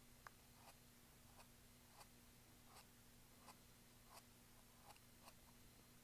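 Faint, short brush strokes on canvas, a little more than one a second: a fan brush flicking acrylic paint, over a low steady hum.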